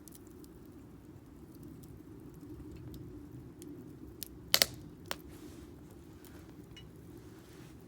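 Firewood burning in a Solo Stove Campfire fire pit: a steady low rumble with a few sharp crackling pops, the loudest a quick double pop about halfway through.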